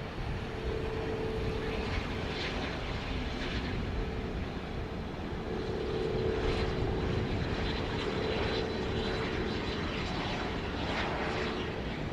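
Airplane engine running, a steady hum over a broad rushing noise.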